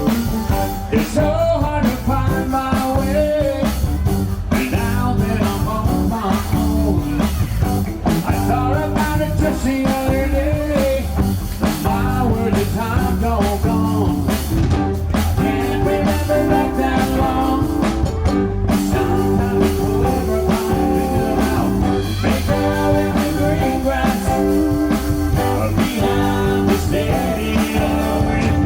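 A band playing a rock-style song, guitar-led over bass and drums with a steady beat, with some singing.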